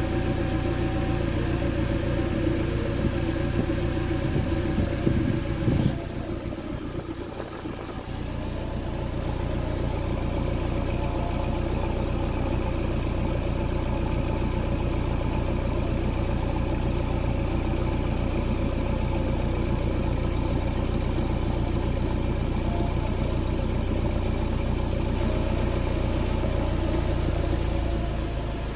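Car engine idling steadily, heard close to the exhaust tailpipe. The sound drops away briefly about six seconds in and picks up again a couple of seconds later.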